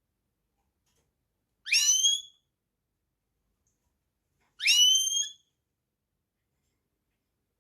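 A finch gives a single rising whistled call twice, about three seconds apart, each call lasting well under a second.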